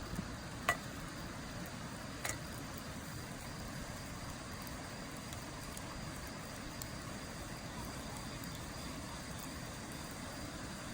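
Wood burning in a campfire, crackling with two sharp pops, about a second in and again two seconds in, and fainter ticks, over a steady rushing background noise.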